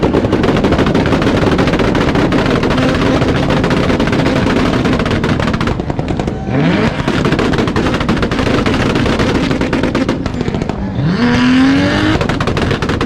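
Turbocharged Toyota Supra engines held on a two-step launch-control rev limiter: a rapid, unbroken crackle of exhaust bangs over a steady engine note. The revs climb again about six and a half seconds in and once more near eleven seconds.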